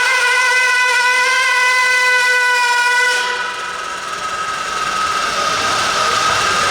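RC pulling truck or tractor running flat out with a loud, high, steady whine. About three seconds in the whine drops away, leaving a quieter, higher whine.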